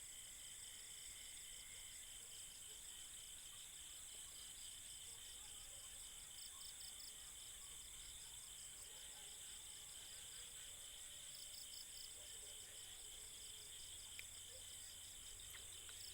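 Faint, steady night chorus of crickets and other insects: several high trills overlapping, one of them pulsing rapidly.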